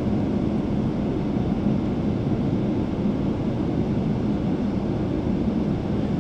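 Steady low hum and rush inside a Boeing 777-300ER airliner cabin on the ground before takeoff, even throughout with no distinct events.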